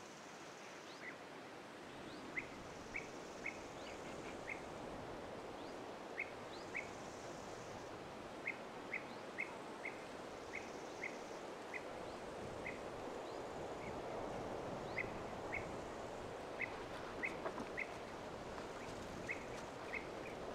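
A bird calling with short, sharp chirps, repeated irregularly every half second or so, over a steady outdoor hiss.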